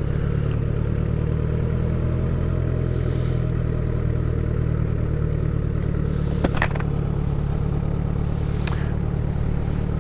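Motorcycle engine running steadily while riding at a constant speed, with two brief clicks, one about six and a half seconds in and one near nine seconds.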